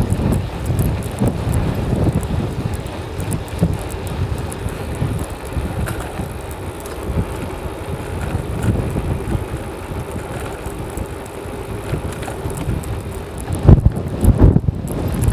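Strong wind buffeting the microphone of a camera on a moving bicycle, a rumbling gusty noise that swells and dips, with the heaviest blasts near the end.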